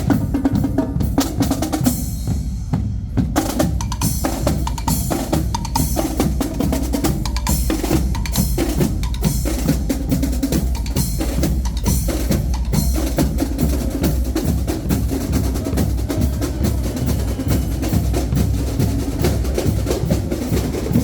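Marching band drumline playing a drum cadence: snare drums with rolls and rim shots over bass drums.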